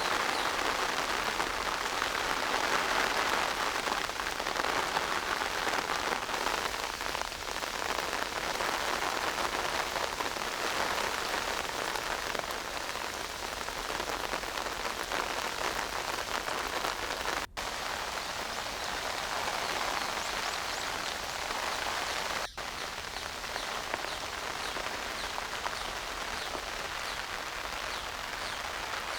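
Steady rain falling and pattering on surfaces. The sound drops out for an instant twice, about two-thirds of the way through.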